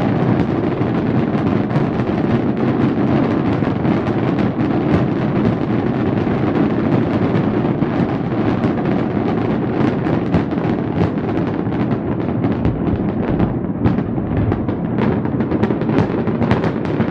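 A fireworks display in a dense barrage: continuous deep booms with many sharp cracks over them, the separate cracks standing out more in the second half.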